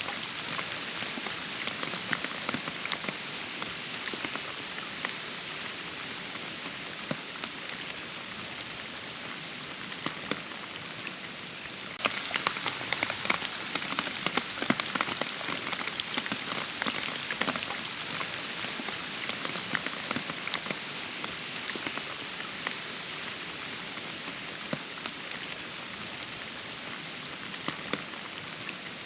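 Steady rain with many individual drops pattering. About twelve seconds in it suddenly gets louder and denser for a few seconds, then settles back to an even fall.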